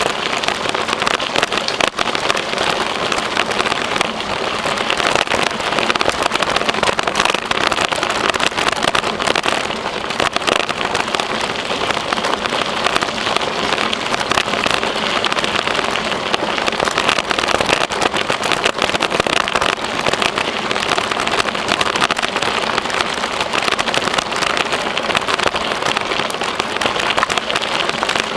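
Steady rushing noise with dense fine crackling from a bicycle in motion: wind on the microphone and the tyres rolling over the trail surface.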